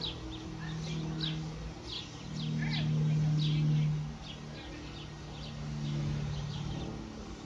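Small birds chirping, a quick run of short falling chirps several times a second. Under it a low steady hum comes and goes in stretches of a second or so and is loudest about halfway through.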